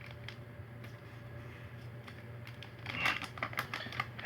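Packaging of a medicated petroleum gauze dressing being handled and opened: quiet for about three seconds, then a burst of crisp crinkling and clicking near the end, over a steady low hum.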